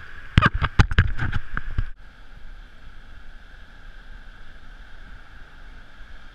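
Water splashing and slapping against a surf kayak and the camera in a quick run of about eight hits, cutting off suddenly about two seconds in. After that there is a steady hiss of wind and surf.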